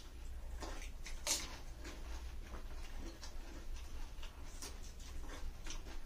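People eating pani puri: crisp puri shells crunching, with short mouth and chewing noises scattered irregularly and the loudest crunch about a second in. A steady low hum runs underneath.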